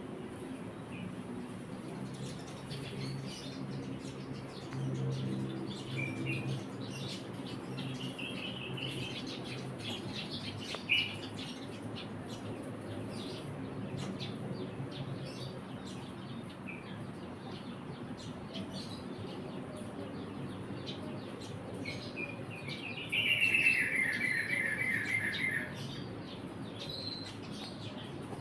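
Eurasian tree sparrow chirping: scattered single chirps, one sharp chirp about eleven seconds in, and a louder rapid chattering run lasting a couple of seconds near the end. A steady low hum runs underneath.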